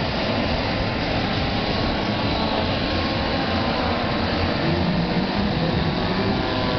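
Remote-control foam aeroplane's electric motor and propeller running in flight: a steady whir whose pitch wavers in the second half.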